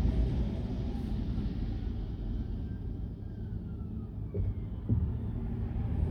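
Car driving, heard from inside the cabin: a steady low rumble of engine and road noise, with two faint knocks near the end.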